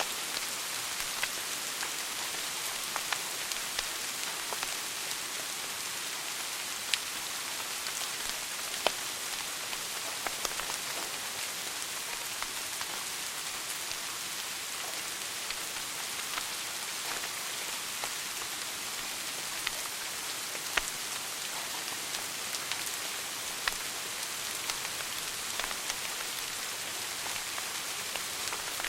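Wood fire burning in a fireplace: a steady hiss with irregular crackles and a few sharper pops.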